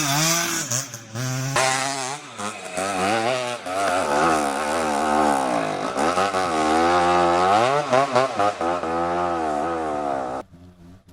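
Trail dirt-bike engine revving, its pitch repeatedly rising and falling with the throttle, until it cuts off suddenly near the end.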